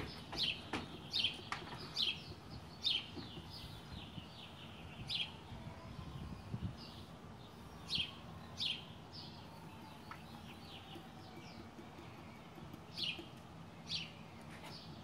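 A small bird chirping over and over: short, sharp, high notes that drop in pitch, coming in pairs and loose clusters at irregular intervals.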